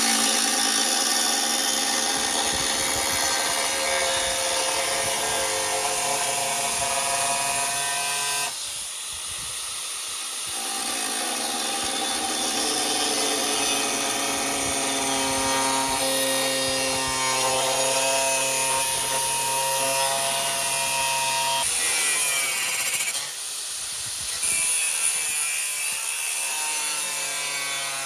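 A handheld power tool running and working on a part, with the pitch of its motor shifting under load. The sound changes abruptly about 8 seconds in and again about 22 seconds in, as the tool is stopped or restarted.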